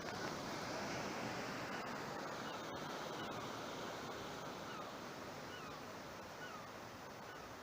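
Sea surf washing onto a beach: a rushing wash that swells about a second in and slowly dies away, with faint short chirps over it.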